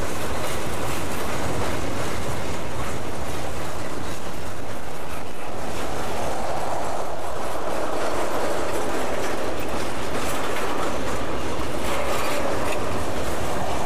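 Freight train cars (tank cars, covered hoppers and boxcars) rolling past at a steady pace, their steel wheels clattering over the rail joints.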